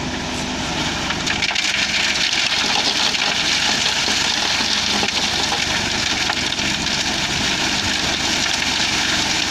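Hino concrete mixer truck running, with a steady rushing hiss that swells over the first couple of seconds and then holds.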